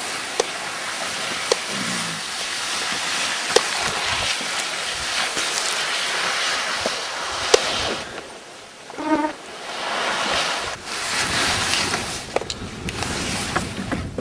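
Water being bailed out of a small wooden boat: steady splashing and sloshing, with several sharp knocks of the scoop against the hull. A short pitched call is heard about nine seconds in.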